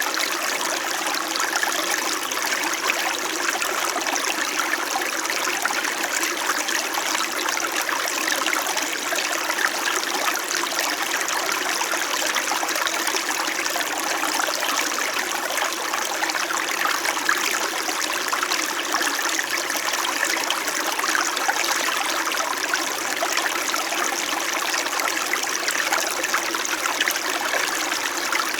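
Small mountain stream in winter flowing steadily, an even babbling and trickling of water over stones.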